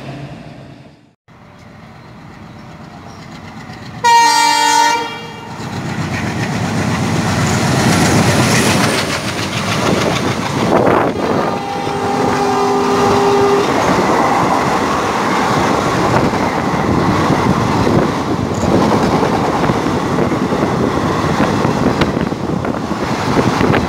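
Alco diesel locomotive running through a station at speed at the head of an express, sounding its horn twice: a short, loud blast about four seconds in and a longer one about halfway through. The coaches follow with a continuous rumble and clickety-clack of wheels over the rail joints.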